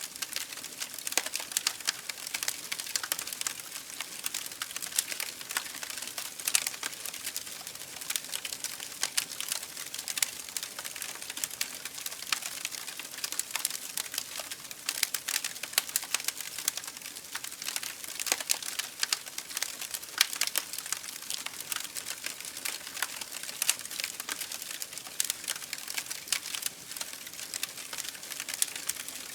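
Campfire burning: wood crackling and popping in many quick irregular snaps over a steady hiss.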